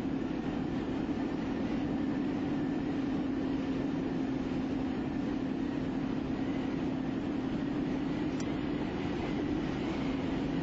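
Steady, unbroken rushing noise of strong tornado wind, with a constant low hum running through it.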